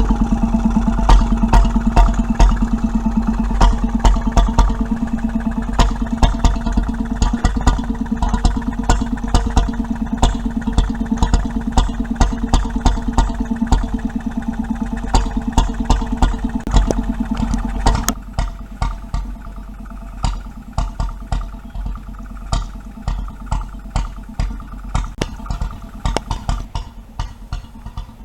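A 1924 Petter M 1.5 hp single-cylinder stationary engine, running on petrol, with a fast, even exhaust beat. About two-thirds of the way through it turns quieter, leaving sparser single beats about a second apart.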